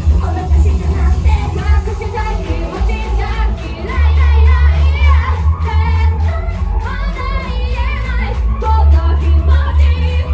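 Japanese idol pop song performed live: high voices sing over a loud backing track with heavy bass and steady drums, the singing wavering in pitch in held notes midway through.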